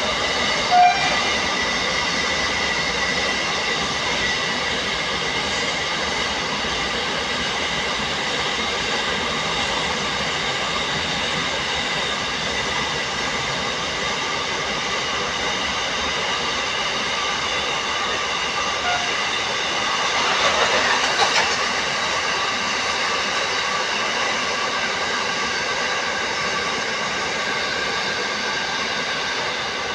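Freight train's container wagons rolling past on the rails: a steady rolling noise of wheels on track with a faint high ringing. A short click comes about a second in, and a brief louder rattle comes about two-thirds of the way through.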